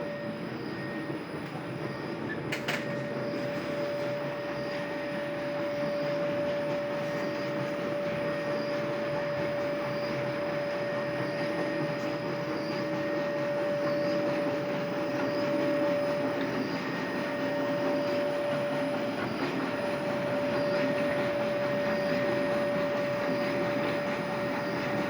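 Carini sanitary-barrier industrial washing machine running: a steady mechanical whir with a constant tone through it. There is a single sharp click about two and a half seconds in, and faint ticking about once a second.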